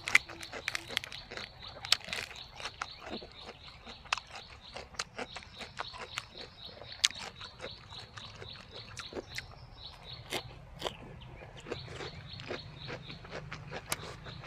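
Close-up eating sounds: a person biting and chewing crunchy jellyfish salad and fresh lettuce, with many sharp crunches and clicks.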